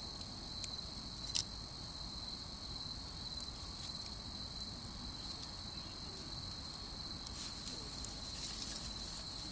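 Crickets chirping steadily in one high, even trill, with a few sharp pops from a crackling campfire, the loudest about a second and a half in.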